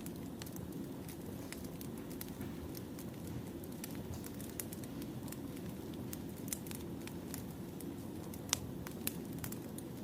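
Firewood burning in a campfire: a steady low rumble of flames with irregular sharp crackles and pops, one louder pop near the end.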